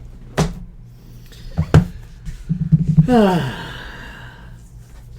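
Two sharp knocks as a trading-card box is handled on a table, then a short sigh-like voice sound that drops steeply in pitch about three seconds in.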